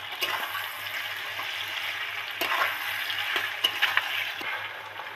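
Potatoes, onions and tomatoes sizzling in hot oil in a kadai while a spatula stirs in ginger-garlic paste, scraping and knocking against the pan several times over a steady frying hiss.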